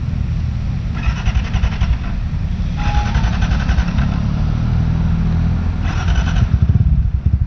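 Dirt bike engine running at low revs while wading through flood water, with three short bursts of throttle about a second, three seconds and six seconds in.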